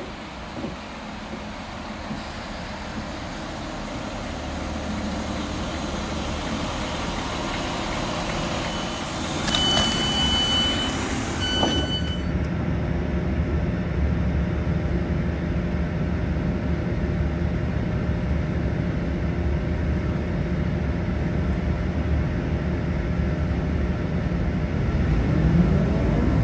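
Class 166 diesel multiple unit running into the platform and braking to a stand, with a short high brake squeal in two parts about ten seconds in and a hiss of air that cuts off suddenly. Its diesel engines then idle with a steady low hum, rising in pitch near the end.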